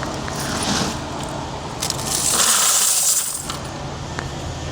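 Coins rattling and sliding in an overfull car wash coin bucket as it is handled. There is a brief rush just under a second in and a longer, louder shifting of coins from about two seconds in, over a steady low hum.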